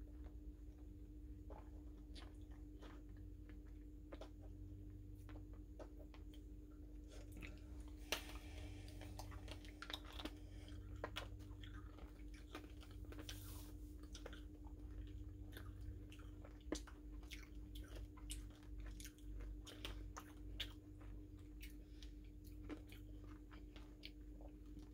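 Faint, irregular chewing and crunching of a SweeTarts Chewy Fusions candy, a piece that is both chewy and crunchy, with the loudest crunch about eight seconds in.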